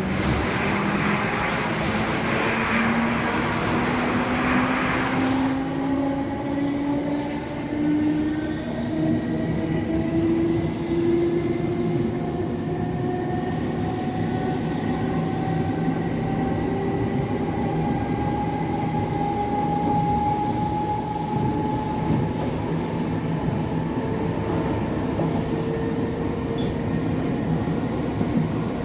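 Class 707 electric multiple unit accelerating, its traction motors whining in several tones that rise slowly in pitch over steady rumble from the running gear. A loud hiss covers the first five seconds or so.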